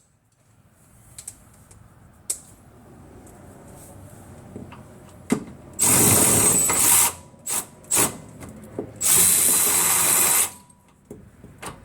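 A power tool spinning a suspension bolt runs in two bursts of about a second and a half each, with a few short tool clicks and clanks between.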